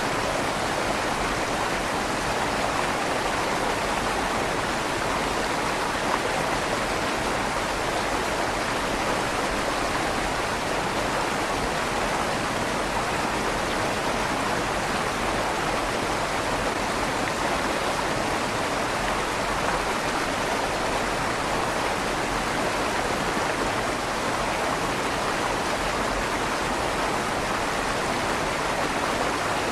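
River water flowing steadily beneath a stone bridge, with a slight echo off the inside of the stone tunnel.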